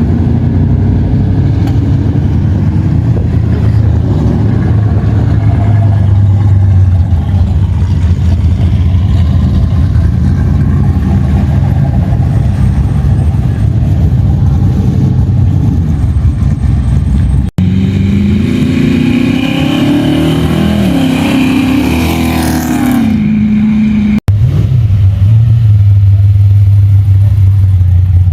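Loud, deep rumble of muscle-car engines running, broken twice by abrupt cuts. In the section between the cuts, an engine revs up and down with its pitch rising and falling.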